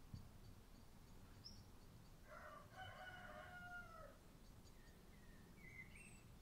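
Faint bird sounds: one long call about two seconds in, lasting nearly two seconds and sliding down in pitch at the end, then a few short chirps near the end.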